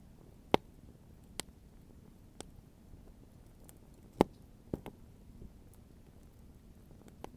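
Wood fire crackling: about seven sharp, irregular pops of burning wood over a faint low hiss. The two loudest pops come about half a second in and just after four seconds in.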